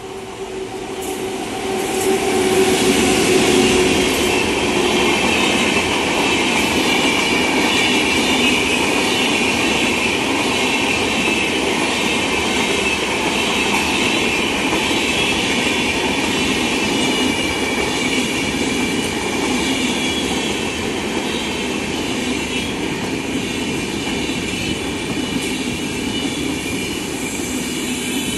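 Rajdhani Express hauled by a WAP7 electric locomotive passing through a station at speed. Steady loud rush of wheels on rail with a high hiss, building over the first two to three seconds as the locomotive arrives, then holding as the coaches run by.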